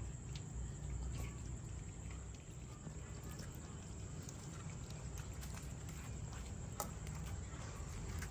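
Cats eating, with a few short sharp clicks of chewing or of food and bowl being knocked. A steady low hum and a steady high whine run underneath.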